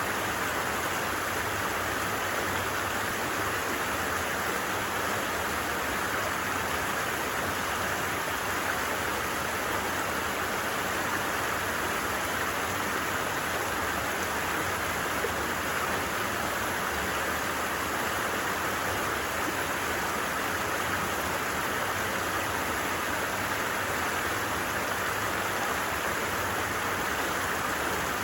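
A flowing stream rushing steadily, an even, unbroken water noise with no change in level.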